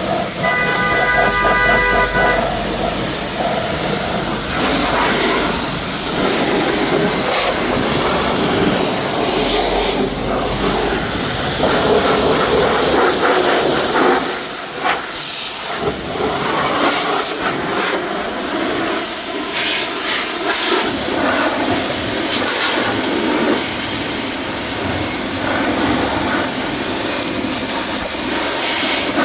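Loud, steady hiss of car-wash equipment working, rising and falling in strength, with a brief whine about a second in.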